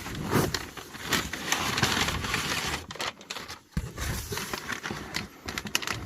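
Packaging being handled and opened: crinkling and rustling with scattered clicks and knocks, densest about a second in.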